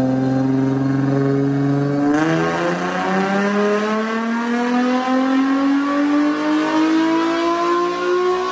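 Infiniti G35 sedan's 3.5-litre VQ35HR V6, with test pipes and a single-exit catback exhaust, on a chassis dyno. It holds a steady note for about two seconds, then turns harsher and the revs climb steadily without a shift: a full-throttle dyno pull.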